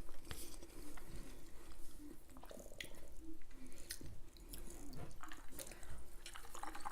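A person chewing a mouthful of pork chop, baked beans and rice close to the microphone, with small irregular mouth clicks.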